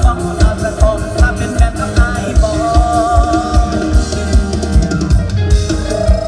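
Live Isan luk thung / mor lam band music: a drum kit keeps a steady, fast bass-drum beat under a wavering lead melody line.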